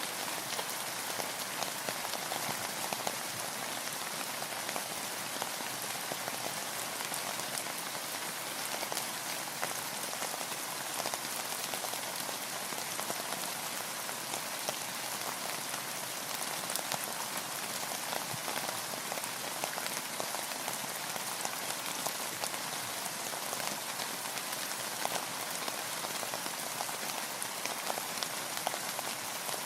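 Steady rain falling on a boat and the water around it: an even hiss with many separate drops striking close by, unchanging throughout.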